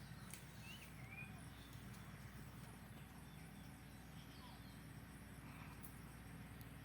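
Near silence: a faint steady low background with a few short, faint bird chirps, the clearest about a second in.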